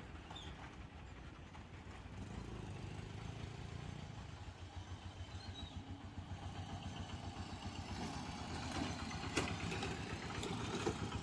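Engine running with a low, fluttering rumble that grows gradually louder, with a few faint clicks near the end.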